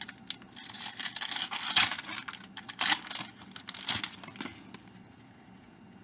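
A trading-card pack's wrapper being torn open and crinkled: a run of short ripping and crackling noises that stops about four and a half seconds in.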